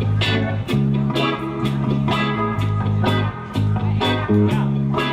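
A band plays the instrumental opening of a song: guitar over a sustained bass line, with a steady beat of drum hits about twice a second.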